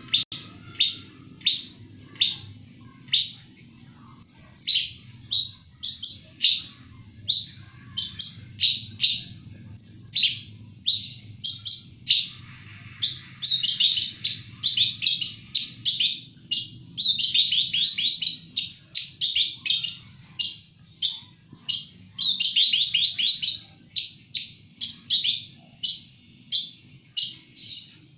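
Long-tailed shrike (cendet) singing loudly: a long run of short, sharp high notes, about one to two a second, broken twice near the middle and once later by spells of rapid harsh chatter.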